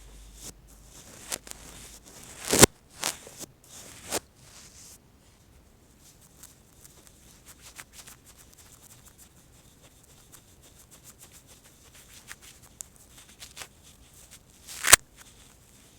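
Brush strokes sweeping across the microphone: soft scratchy brushing, with a few sharp, louder swipes about three seconds in and another near the end.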